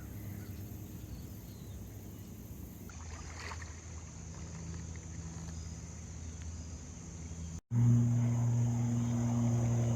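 Kayak paddling on a river: paddle strokes and water splashing softly against the hull. About three-quarters of the way in it cuts off abruptly, replaced by a louder, steady low droning hum.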